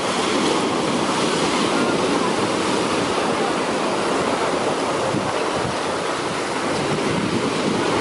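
Heavy sea surf: large waves breaking and washing up the beach, a continuous rushing noise with no clear pauses between waves.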